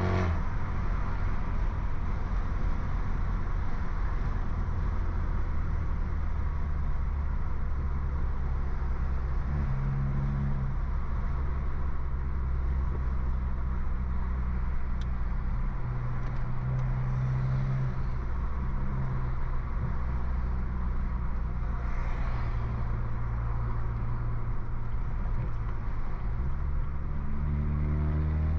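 BMW F30 328i's turbocharged four-cylinder engine, with a stage 2 tune and downpipe exhaust, droning steadily under way. The engine note shifts slightly now and then and climbs as it revs up near the end.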